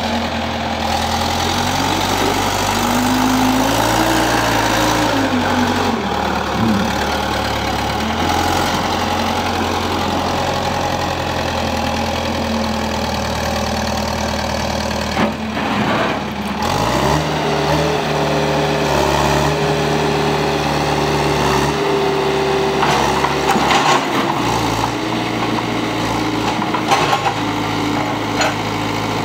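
Tractor engine running a tractor-mounted backhoe, its speed dipping and picking up as the load changes, with a clear rise in revs a little past halfway. A few sharp knocks come near the end.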